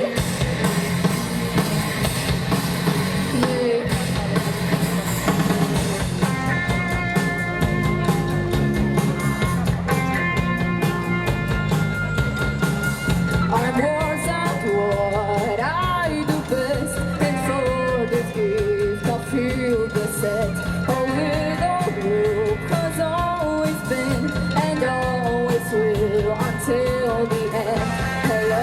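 Live rock band playing with drum kit and guitars. Held chord tones come in about six seconds in, and a lead melody line that bends in pitch enters about fourteen seconds in.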